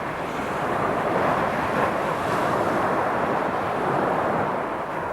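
Sea surf washing on the shore with wind buffeting the microphone: a steady, even rushing.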